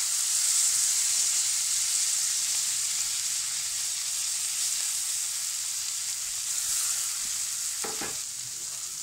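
Chicken seekh kababs sizzling as they fry in a little butter in a hot kadai, a steady high hiss that eases slightly toward the end. A light knock sounds near the end.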